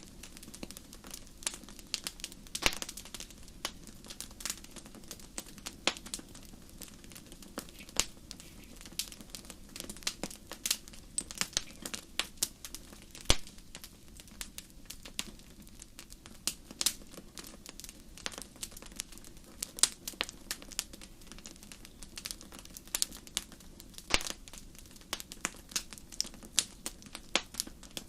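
Campfire burning, with irregular sharp crackles and pops of burning wood, several a second in places, over a faint steady low rush.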